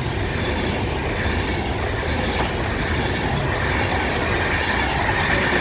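Class 390 Pendolino electric train passing at speed: a steady rush of wheel and air noise, with a faint high whine coming in about three and a half seconds in.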